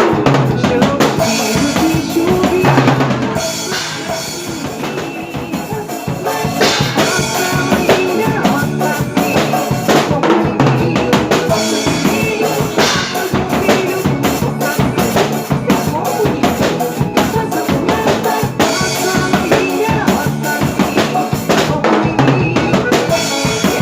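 Drum kit played along to a recorded forró band song: steady bass drum, snare and rimshot strokes over the band's instruments, with a softer passage a few seconds in.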